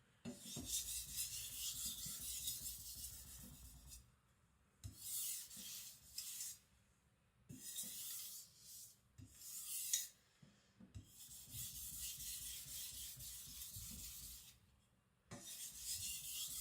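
Hard AEB-L steel knife edge stroked back and forth across a whetstone: a scraping hiss in several runs of strokes, each one to four seconds long, with short pauses between.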